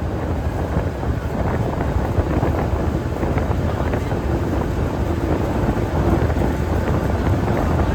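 Tour boat's engine running steadily under heavy wind buffeting the microphone.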